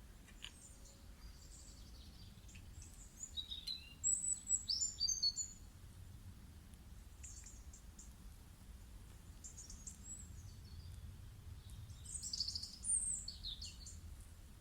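Songbirds singing in short bursts of high chirps and sweeping whistles, two clusters of song a few seconds apart, over a faint low steady hum.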